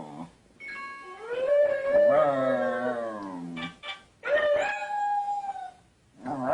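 Dogs howling: a long howl that rises in pitch and holds for about three seconds, then after a brief pause a second, shorter howl.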